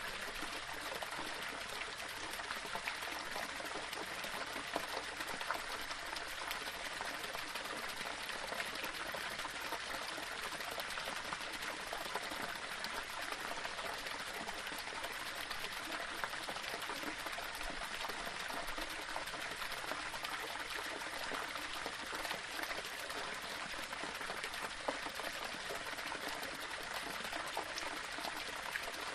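Small waterfall splashing and trickling over stones, a steady, even rush of water with little splashes scattered through it.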